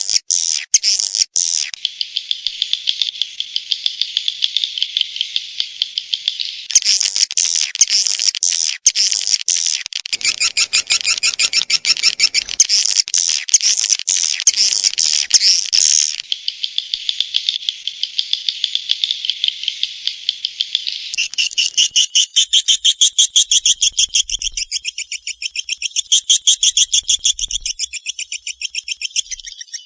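Swiftlet lure-call recording: dense, rapid trains of high chirps and chittering twitters, the kind played to attract swiftlets to a nesting house. The call pattern changes every few seconds and turns into a faster, denser chitter in the last third.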